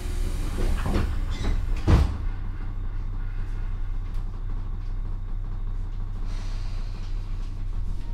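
Tobu 9000 series electric train heard from inside the car, its wheels running on the rails with a steady low rumble. A cluster of clanks comes in the first two seconds, the loudest about two seconds in, then the rumble runs on evenly.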